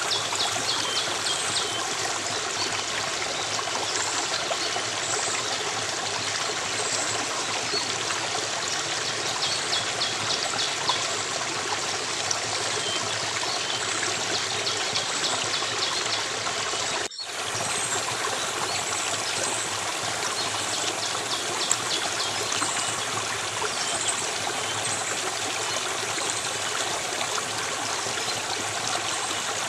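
Steady flow of a stream or trickling water, with groups of faint high trilling calls recurring a few times over it. The sound drops out for a moment a little past halfway.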